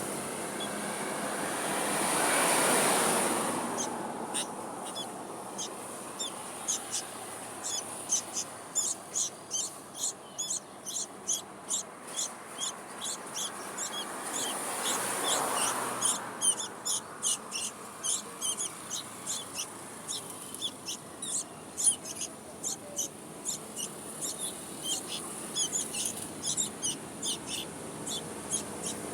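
Sooty-headed bulbul nestlings cheeping for food: short, high begging peeps, several a second, starting about four seconds in. A steady high whine runs underneath, and a rushing noise swells twice, near the start and about halfway.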